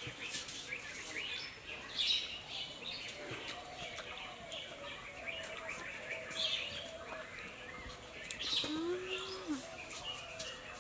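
Small birds chirping and twittering in the background, with brief clusters of calls scattered through.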